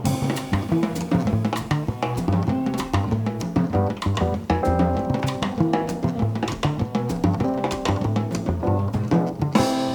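Live jazz band playing, with drum kit and bass up front in a busy, steady groove.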